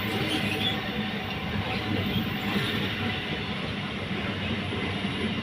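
Palghat–Ernakulam MEMU electric multiple-unit train moving along the track, a steady noise of wheels on the rails.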